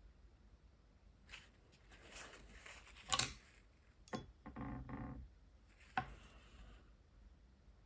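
Art-supply handling at a desk: four small clicks and knocks, the second the loudest, with short bouts of rustling and scraping between them, as water-based markers and their caps are handled.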